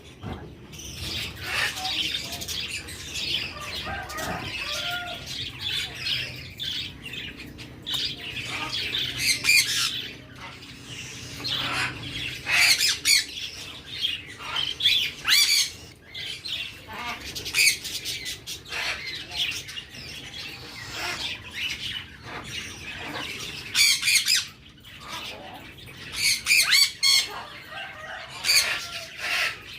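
Baby budgerigar chicks making begging calls, the food-begging of chicks being hand-fed. The calls come in quick clusters of short notes, with several louder bouts.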